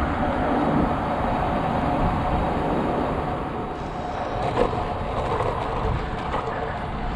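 Steady rushing noise with a heavy low rumble, the sound of riding a bicycle at speed: wind buffeting the microphone along with tyre and nearby traffic noise.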